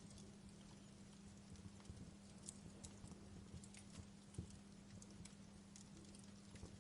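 Fire crackling quietly, with irregular small pops and snaps, a slightly sharper one about halfway through, over a faint steady low hum.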